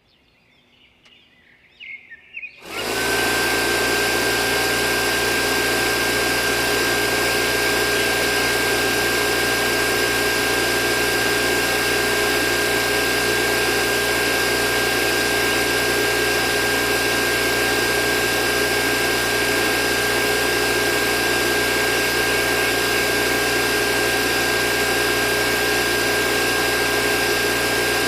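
A small electric motor switches on about three seconds in, briefly winds up, then runs at a steady speed with a constant whine, preceded by a few faint clicks.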